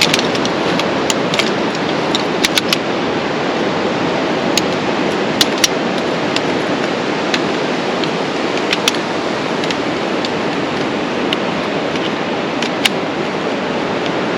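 Steady rush of ocean surf, with scattered sharp clicks and light rattles of camping gear being handled, some of them in quick pairs.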